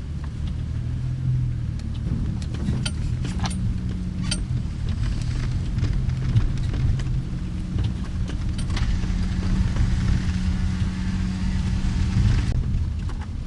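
Car engine and road noise heard from inside the moving car: a steady low rumble with scattered light ticks. A hiss swells about nine seconds in and cuts off sharply near the end.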